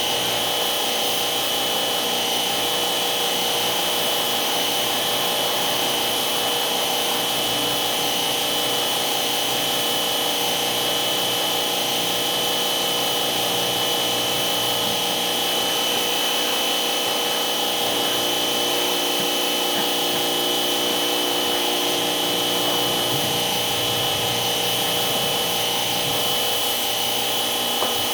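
A motor running steadily with a constant high whine.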